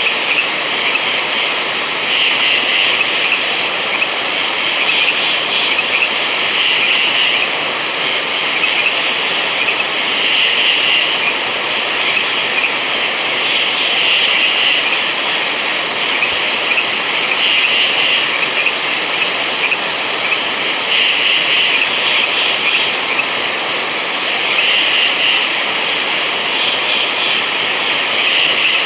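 A dense, steady chorus of frogs calling, with the whole chorus swelling louder in regular pulses about every three and a half seconds.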